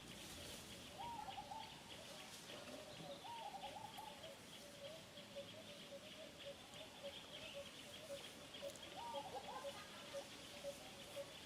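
Faint outdoor birdsong: a bird repeating a short note over and over, with a steady high pulsing chorus above it. Short wavering calls break in about a second in, around three seconds and again near nine seconds.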